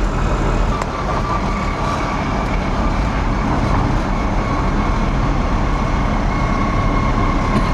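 Cab of a gas-to-electric converted pickup truck cruising with the windows down: steady road and tyre noise with a faint, steady high whine from the electric motor and transmission, and no engine running sound.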